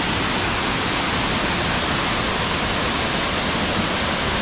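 Waterfall heard up close: a loud, steady rush of falling water with no breaks.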